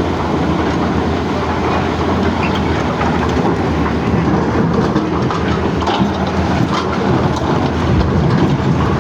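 Diesel engine of a CAT excavator running steadily under load, with scattered clatter and knocks of rock being handled.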